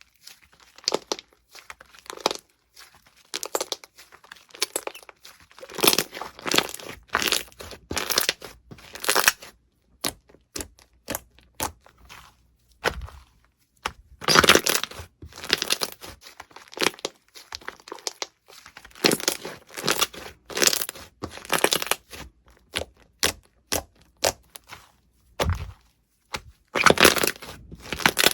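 Crunchy slime being squished and pressed, giving bursts of crisp crackling and crunching in clusters with short pauses between them.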